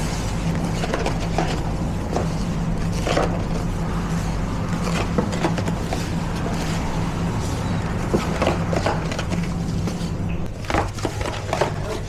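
Kitchen work sounds: scattered clicks and knocks of containers and utensils being handled over a steady low machine hum. The higher of the hum's tones stops about ten and a half seconds in.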